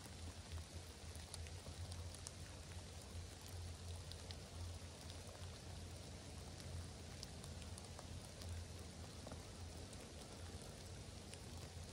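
Faint light rain falling, with scattered drops ticking, over a low fluttering rumble.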